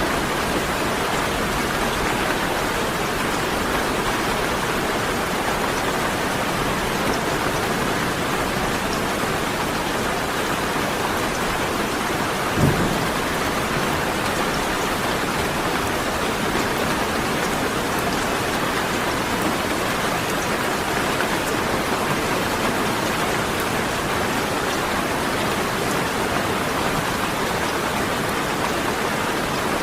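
Steady rain, an even hiss, with one brief low thump about halfway through.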